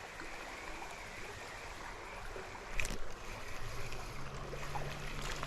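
Creek water running steadily, with one brief sharp click or splash about three seconds in and a low steady hum that comes in a little later.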